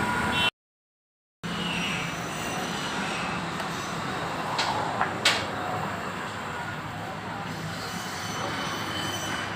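Steady background rumble with two sharp clicks about half a second apart midway, broken near the start by a second of dead silence.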